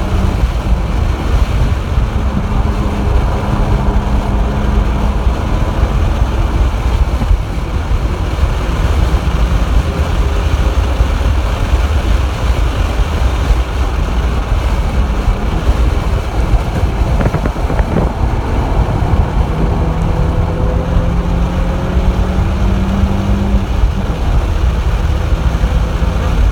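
Nissan 350Z's VQ35HR V6 heard from inside the cabin at track pace, under a heavy rumble of road and wind noise. The engine note climbs in pitch under acceleration, most clearly in the second half, then drops away.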